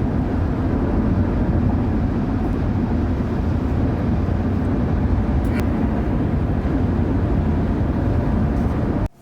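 Steady road and engine rumble inside a car cruising at highway speed. It cuts off abruptly near the end.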